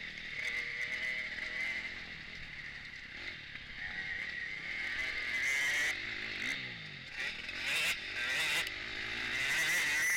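Onboard sound of a KTM 250 four-stroke motocross bike ridden hard: the engine revving up and down over a steady rushing noise, with a few sharp knocks from the ground in the second half.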